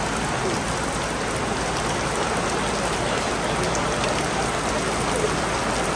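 A rain shower falling steadily: a dense, even hiss of rain hitting surfaces, with occasional single drop ticks.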